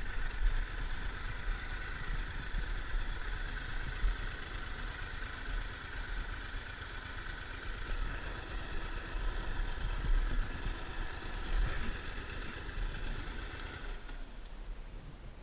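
Triumph Tiger 1200 three-cylinder motorcycle engine running steadily, with an uneven low rumble beneath it; the steady hum stops about a second before the end.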